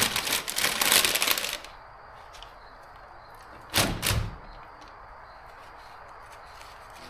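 Crinkling, rustling handling noise for about a second and a half, then two sharp knocks in quick succession about four seconds in.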